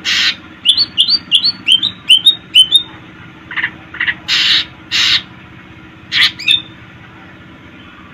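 Cucak ijo (leafbird) singing: a quick run of about seven rising chirps, mixed with harsh rasping notes, then a few more chirps near the end. A faint steady low hum lies behind it.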